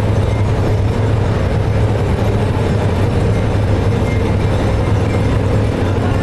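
Steady, loud low hum of machinery running continuously in a brass-pipe workshop.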